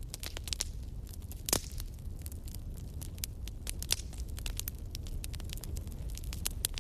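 Wood fire crackling in a fireplace: irregular sharp pops and snaps over a steady low rumble, with louder pops about one and a half seconds and four seconds in.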